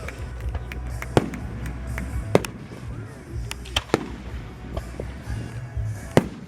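Fireworks bursting overhead in a series of sharp bangs, a few loud ones among smaller pops, over a steady low rumble.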